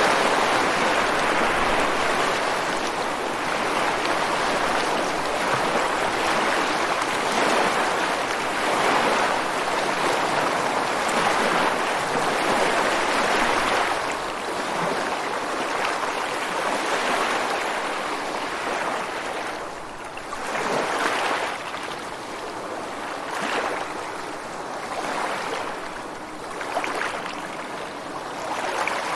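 Ocean surf washing ashore on a beach, a continuous rushing wash of water. It is louder through the first half, then eases off, with several smaller waves swelling and falling back near the end.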